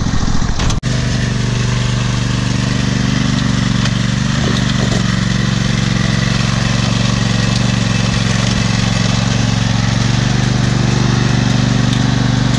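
Small tractor's engine running steadily, with a brief cut-out about a second in.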